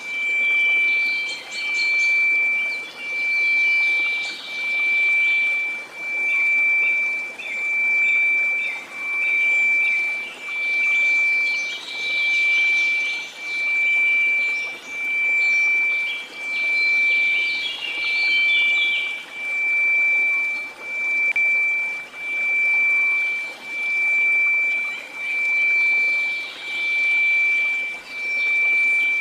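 A steady 2334 Hz sine tone over a hiss of white noise, swelling and fading about once every second and a half.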